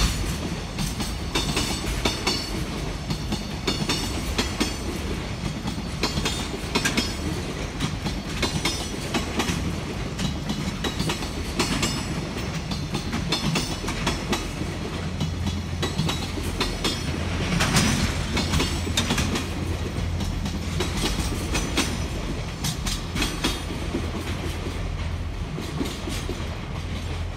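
Container flat wagons of a freight train rolling past, their wheels clattering over the rail joints in a continuous run of clacks over a steady rumble. It is loudest a little past the middle and eases slightly near the end as the last wagon goes by.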